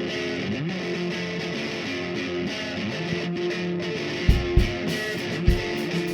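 Psychedelic rock band playing the instrumental opening of a song, led by electric guitars; a kick drum comes in about four seconds in.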